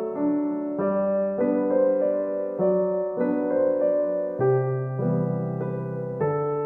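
Background music: a gentle solo piano piece, one note or chord after another at about two a second.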